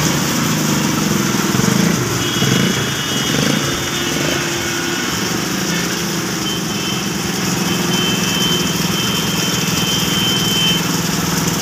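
Heavy rain falling steadily on a flooded street, with a small vehicle engine running in a steady low hum beneath it.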